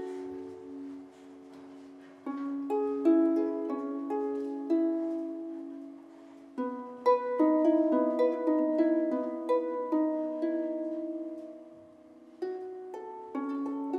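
Harp playing an instrumental passage of plucked notes and chords over held low tones, in phrases that fade and start again.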